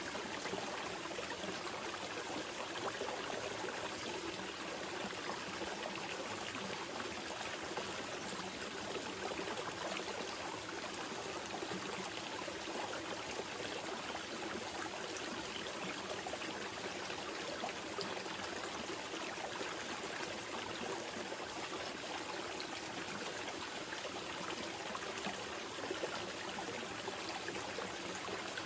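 A small mountain river flowing over rocks: a steady rush of water with fine trickling and splashing detail.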